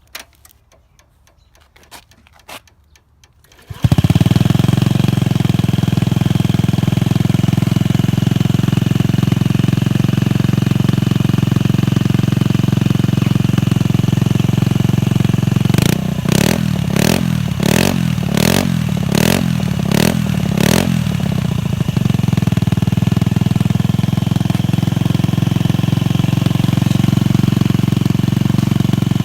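Honda Ruckus 49cc GET four-stroke scooter engine with a DR.D full exhaust: a few clicks, then it starts about four seconds in and idles steadily. Around the middle it is revved in about seven quick throttle blips, then it settles back to idle.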